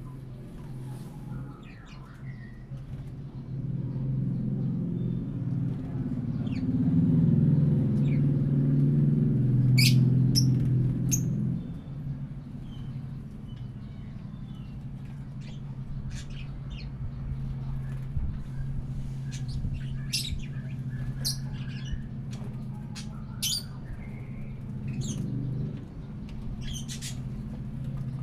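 Captive lovebirds and budgerigars chirping and squawking in short, sharp calls scattered throughout, over a steady low hum that swells louder for several seconds in the first half.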